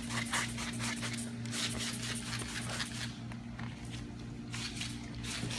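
Paint protection film being worked on a car hood: a quick run of short scraping strokes, then a few separate hissing bursts like sprays of slip solution. A steady low hum runs underneath.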